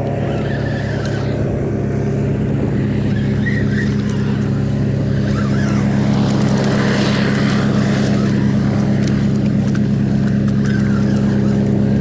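A boat's motor running steadily, a constant low engine drone that grows a little louder over the first few seconds and then holds.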